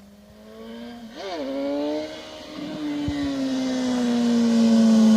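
A motorcycle engine gives a quick throttle blip about a second in, then holds a nearly steady pitch while growing steadily louder as it approaches.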